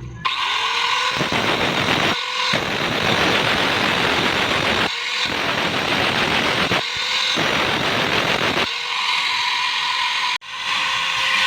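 Angle grinder working steel, a harsh grinding hiss broken by several short lifts in which the motor's high whine is heard running free.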